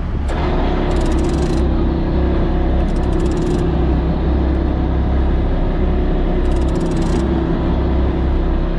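Boat engine running steadily under load, with a constant hum. Three short bursts of fast clicking come through over it.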